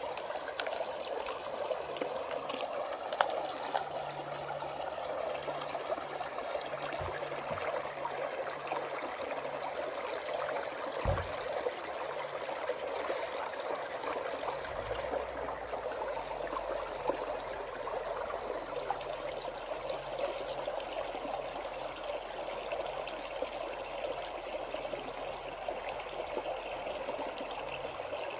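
A small mountain creek running and trickling over rocks, a steady even rush of water.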